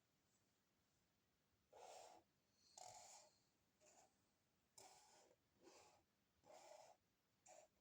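Faint breathing: about seven short, breathy puffs, starting about two seconds in.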